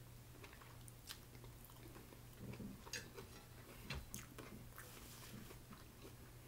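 Faint chewing of a mouthful of rice noodles with shrimp, with a few small, sharp clicks over a faint steady hum.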